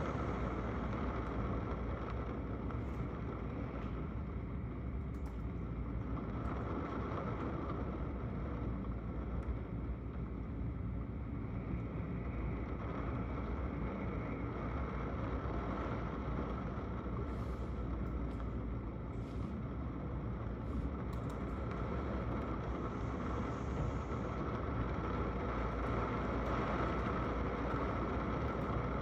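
Steady rain heard through a window, an even noise with a deep low rumble underneath.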